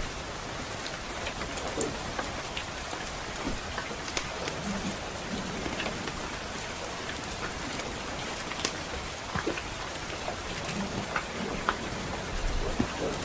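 Steady soft rain hissing, with a wood fire crackling through it in scattered sharp pops, and a brief low thump near the end.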